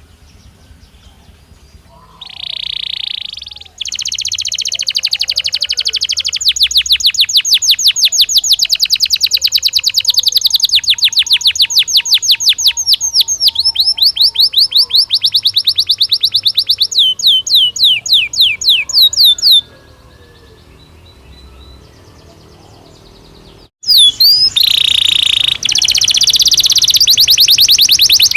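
Belgian canary singing: long, rapid, high-pitched trills of repeated falling notes. The song pauses for a few seconds about two-thirds of the way through, then starts again.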